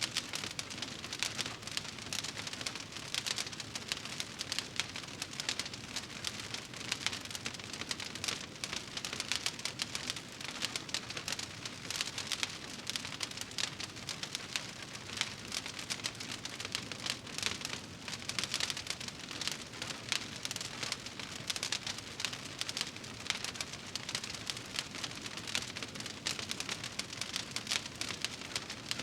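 Wood fire burning in a fireplace, crackling steadily with a dense run of small pops over a soft hiss.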